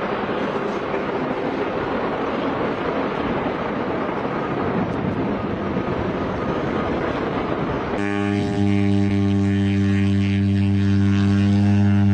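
Engine noise: a steady rushing roar for about eight seconds, then an abrupt change to a steady low drone with a clear hum-like pitch.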